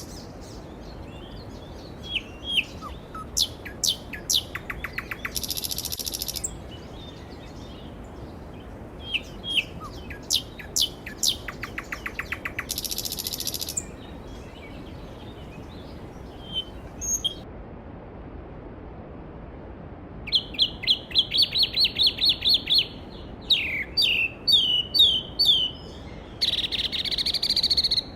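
Songbirds singing over the steady rush of a valley stream. One bird sings the same phrase twice, each ending in a fast trill. Later comes a rapid run of repeated notes and then a string of falling whistles.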